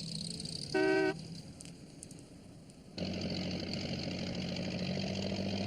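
A short toot of a van horn about a second in, then from about three seconds the steady hum of the post van's engine running, which starts suddenly.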